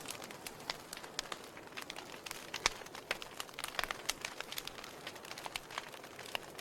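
Wood fire in a fireplace crackling, with a steady soft hiss and irregular sharp pops and snaps, the loudest about two and a half seconds in.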